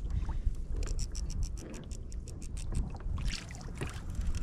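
A fishing reel cranked quickly to bring a small tuna up on a jig: a rapid run of clicks, about seven a second, lasting about two seconds. Underneath is a steady low rumble of wind and water against the kayak.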